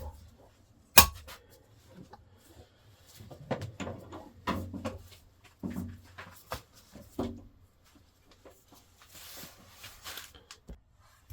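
Hand valve lapping on an engine cylinder head, heard as the handling of the valve and lapping tool: one sharp knock about a second in, then a run of irregular knocks and scrapes, and a brief hissing rub near the end.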